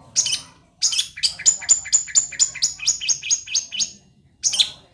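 Long-tailed shrike (cendet) singing: a short harsh call, then a rapid run of high notes at about five a second for some three seconds, and another harsh call near the end.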